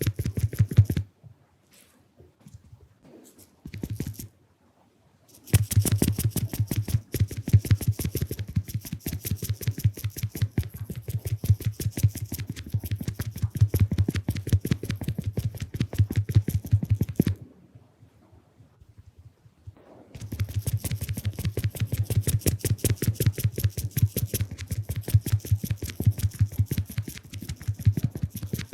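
Mini makeup puff sponge patted rapidly against the camera lens, a fast run of soft close-up taps with a dull thud and a crisp edge. It stops soon after the start for about four seconds, resumes, pauses again for a few seconds past the middle, then carries on.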